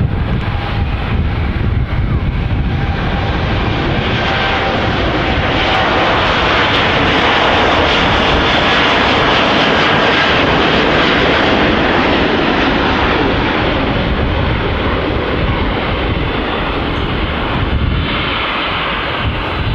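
Jet airliner's engines at takeoff power as it passes, swelling to a peak midway and then easing off, with wind buffeting the microphone throughout.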